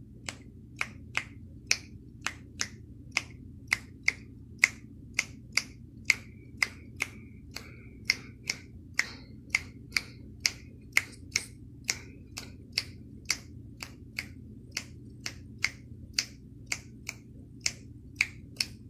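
A long, even series of sharp snaps or clicks, about two and a half a second, over a faint steady low hum.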